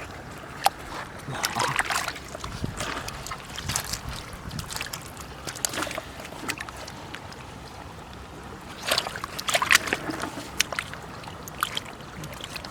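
Water splashing and sloshing in irregular bursts, clustered near the start and again about nine to ten seconds in, over a steady low rumble.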